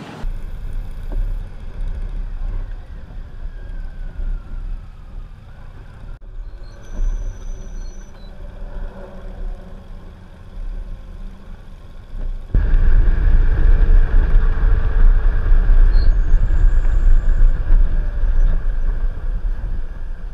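Motorcycle on the road: engine and road noise with a steady low rumble, heard over several cut clips and much louder from about twelve seconds in.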